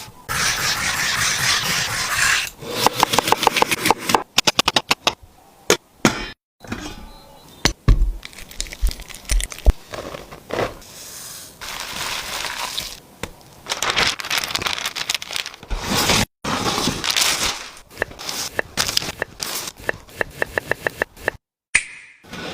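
Kitchen food-preparation sounds in short edited clips: fast, regular knife chops on a cutting board, stretches of steady hiss, and scattered knocks and scrapes.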